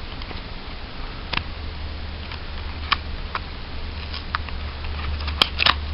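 Pokémon trading cards from a theme deck being handled: scattered light clicks and crinkles, the sharpest pair near the end, over a steady low hum.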